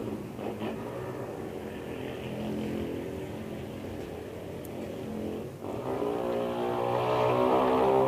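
Domestic cat purring steadily in a low, continuous rumble, growing louder about two-thirds of the way through.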